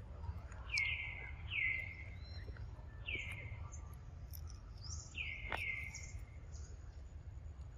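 A bird calling five times, each call a short note sliding downward, over a steady low outdoor rumble, with a few faint sharp clicks.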